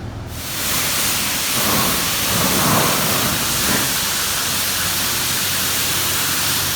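High-pressure water spraying onto a vehicle at a car wash: a steady, loud hiss that comes in just after the start and cuts off abruptly near the end.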